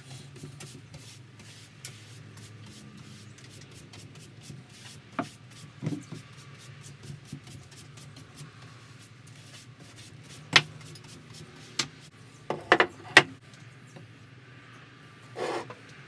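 A bristle brush sweeping sawdust across a workbench, a steady scratchy rubbing with many small ticks. Sharper knocks of objects set down on the bench come now and then, with a cluster late on, all over a steady low hum.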